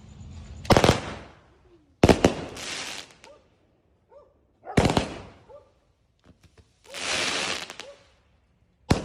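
Firecrackers going off: four separate sharp bangs a few seconds apart, each fading quickly, with a hissing burst about a second long shortly before the last bang.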